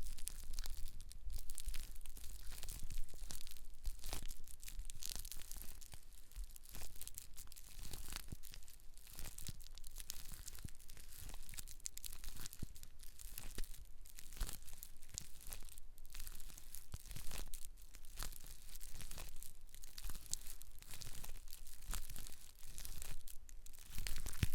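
Close-miked scalp and hair care: a dense, unbroken run of soft crackles and rustles as the hair and scalp are worked near the microphone.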